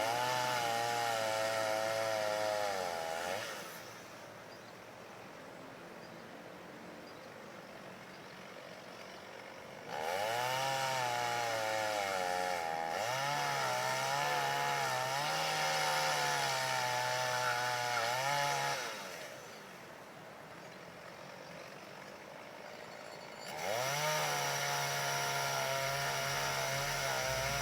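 Two-stroke chainsaw revved up and cutting into a spruce trunk three times, dropping back to a quieter idle between cuts. Its pitch wavers as the chain bites into the wood.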